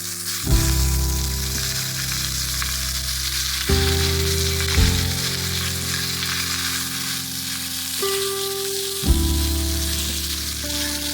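Food frying with a steady sizzle. Background music with sustained low notes underneath, changing chords every few seconds.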